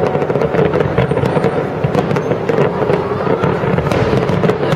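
Aerial firework shells bursting in quick succession, many bangs and crackles close together forming a continuous loud din.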